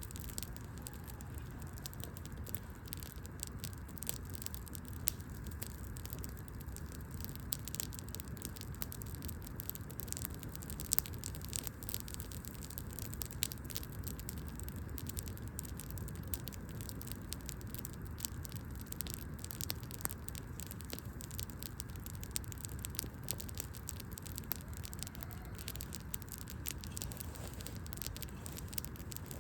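Wood fire burning, with frequent small crackles and snaps from the logs, a few louder pops, over a low steady background rumble.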